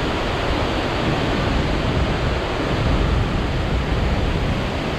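Ozone Falls, a 110 ft waterfall running high, crashing steadily as heard from close to its base. An even, unbroken loud rush.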